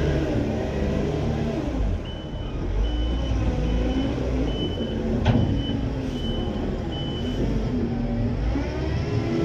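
A farm machine's engine running and changing pitch as it works, with its reversing alarm giving a string of evenly spaced high beeps for about five seconds, and a single sharp knock midway.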